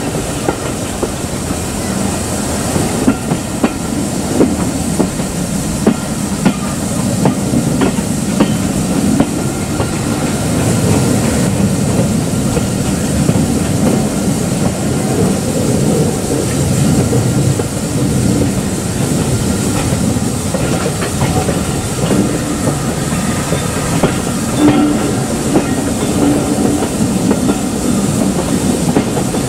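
Railway train running on the rails, with a continuous rumble and irregular clicks as the wheels pass over the rail joints.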